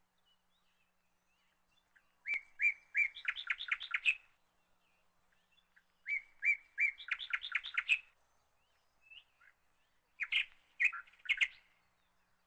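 A bird singing in three phrases, each a few spaced chirps followed by a quick run of notes.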